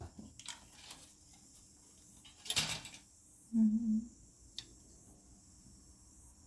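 Light clicks, knocks and a short rustle of small projector parts, the removed blower fans, being handled. A brief low hum comes about three and a half seconds in.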